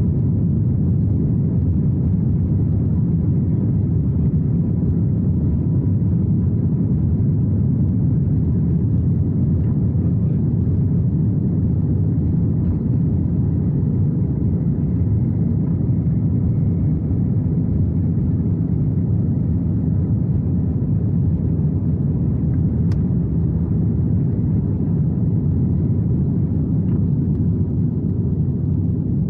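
Steady low rumble inside the cabin of an Airbus A321neo with its engines running.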